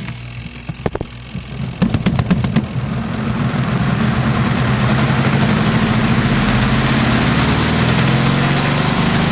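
A few clicks, then a small washing machine's spin dryer starts and spins up to a steady motor hum over about two seconds, with water hissing as it is flung around inside the spinning drum.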